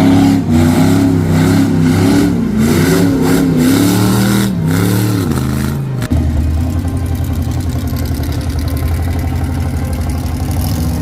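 Loud mud-bog truck engine revving, its pitch rising and falling repeatedly. About six seconds in, an abrupt cut to a steadier, lower engine note.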